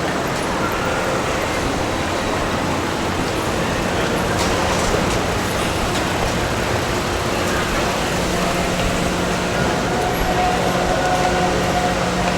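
Busy city street traffic: a steady wash of vehicle noise, with a low steady engine hum setting in about two-thirds of the way through.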